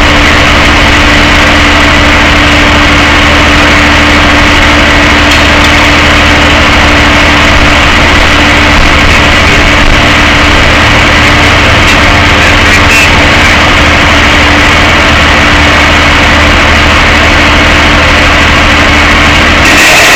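Tow truck's engine running with a steady, loud drone, heard from inside the truck.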